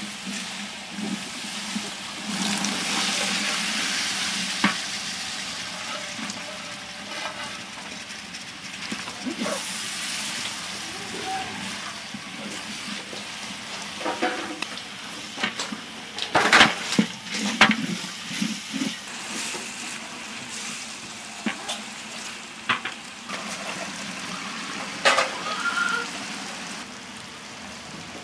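Chopped goat offal and onions frying and sizzling steadily in a large aluminium pot as a wooden spoon stirs them. The spoon knocks and scrapes against the pot several times around the middle, and a few more times later on.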